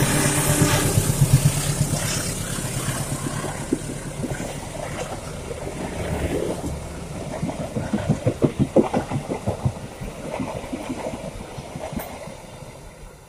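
Passenger train passing close by, its CC 203 diesel-electric locomotive's engine fading as it goes past. The coaches' wheels clatter on the rails in a quick run of clacks about eight seconds in, and the whole train dies away as it recedes.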